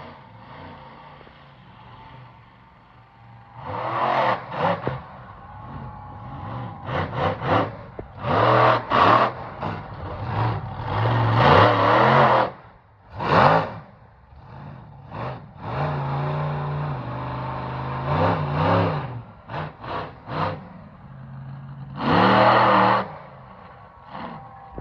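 Monster truck engine revving hard in repeated bursts of a second or two, surging and falling back to a low idle between them, with a longer held rev in the middle and a last big surge near the end.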